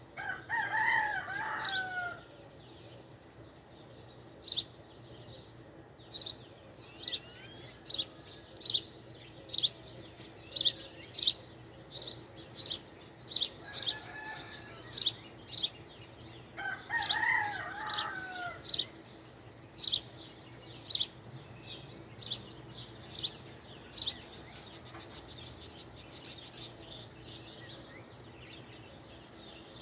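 A rooster crows twice, the calls about two seconds long and some 17 seconds apart, while a small bird gives a long series of short, sharp, high chips, roughly one a second.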